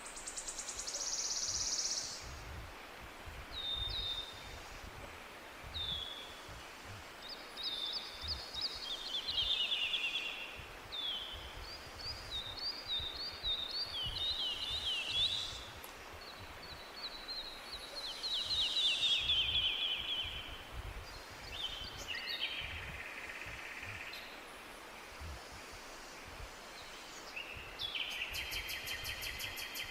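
Several songbirds singing and calling in a forest, with a string of short chirps, down-slurred notes and rapid trills, over a steady background hiss. Near the end a fast, buzzing trill sets in.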